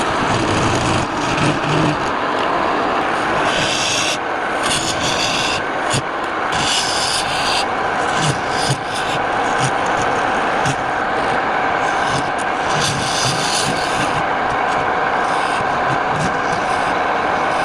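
A wood lathe running while the spinning wood is worked: a steady rubbing, rasping noise with a faint steady hum, broken by louder, hissier scraping strokes every few seconds.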